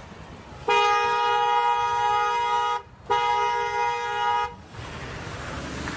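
Car horn sounding in two long blasts, the first about two seconds and the second about a second and a half, after a short gap. It is a steady two-note horn.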